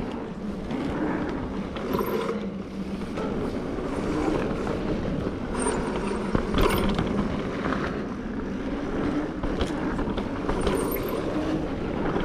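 Mountain bike ridden along a dirt trail: steady tyre-rolling and rattling noise, with a few brief knocks over bumps.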